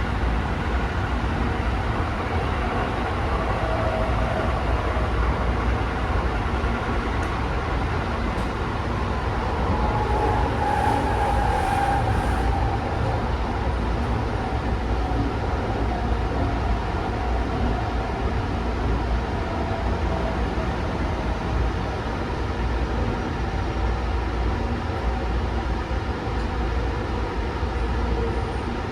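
Inside a Tsukuba Express commuter train running between stations: a steady rumble of wheels on rail and running noise, with a faint whine that swells and fades near the middle.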